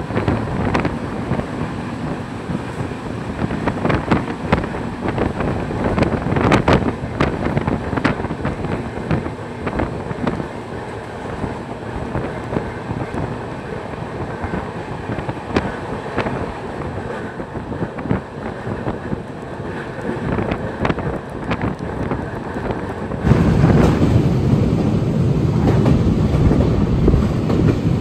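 Train running noise heard from inside a moving passenger coach, wheels clattering over rail joints with many sharp clicks, as a goods train passes on the adjacent track. About 23 seconds in the sound abruptly turns louder and deeper.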